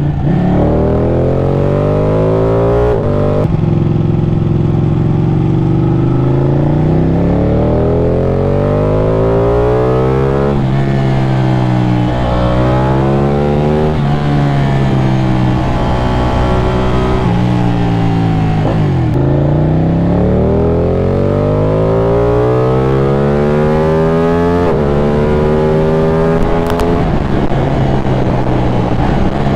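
Ducati Panigale 899's V-twin engine heard from onboard, revving up through the gears in repeated rising sweeps cut by quick breaks at each electronic quickshifter change. Midway it falls away as the bike slows, then pulls hard again.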